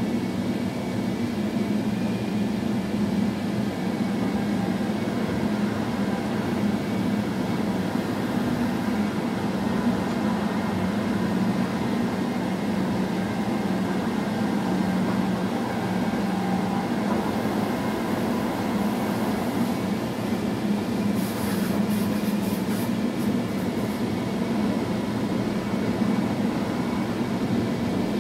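Train running along the line, heard from inside the driver's cab: a steady rumble of wheels on rail with a low hum and faint higher whine. A short burst of crackling ticks comes about three-quarters through.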